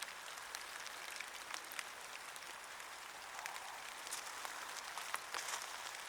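Steady rain falling on a garden: an even hiss with many sharp drop ticks scattered through it.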